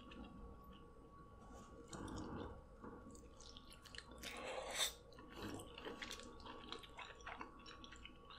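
Close-miked chewing and mouth sounds of a person eating deshelled seafood coated in Alfredo sauce, with soft small clicks throughout. A louder bite comes about halfway through.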